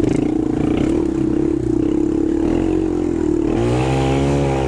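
Quad engine running hard and steady under load, with the revs dipping and climbing again about three and a half seconds in.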